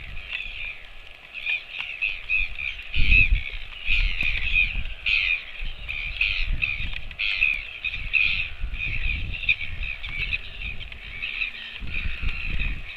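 Many birds chattering and calling at once in a dense, continuous stream of short notes, with irregular low thumps underneath.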